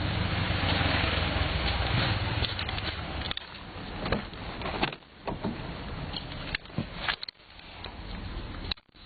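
A car running, its engine and road noise loud for about three seconds, then quieter, with several sharp knocks over the next few seconds.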